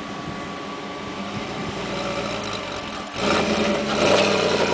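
Willys Jeep's Toyota 1UZ V8 engine running, getting louder about three seconds in.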